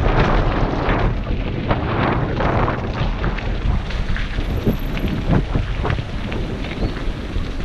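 Wind buffeting a helmet-mounted GoPro's microphone during a fast downhill bike ride, a loud continuous rumble, with frequent short knocks and rattles from the bike jolting over a rough gravel road.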